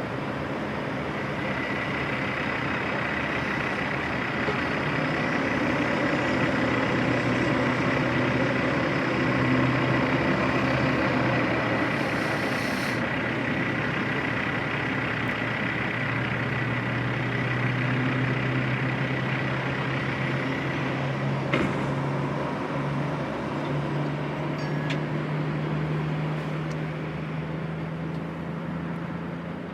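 Heavy diesel truck engine running steadily, its pitch rising slightly in the last third. A brief hiss about twelve seconds in, and a single click a little past twenty seconds.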